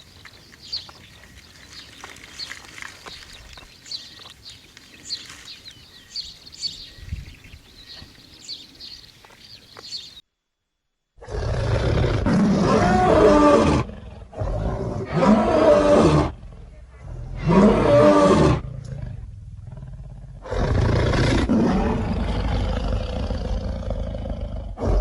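Faint high chirps over quiet outdoor ambience, then, after a brief silence, a large wild cat roaring loudly in several long roars.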